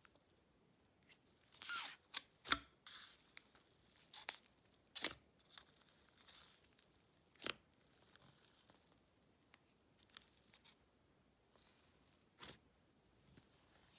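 Icy slime being poked, stretched and squished by hand: scattered soft crackles and sharp little pops, a second or more apart.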